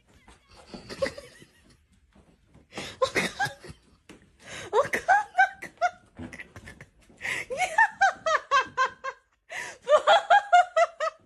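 A person laughing in several fits of quick, pitched bursts, with short pauses between the fits.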